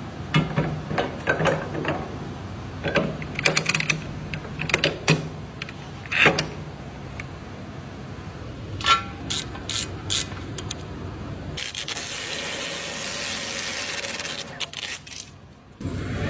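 Tools clicking and clanking during tyre repair work, a run of sharp metallic clicks and knocks, then a steady hiss lasting about three seconds near the end.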